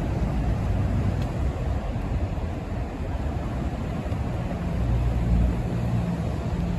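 Highway traffic with a steady rush of tyre noise; about two-thirds of the way through a heavy truck's low engine drone comes in and grows louder as it approaches.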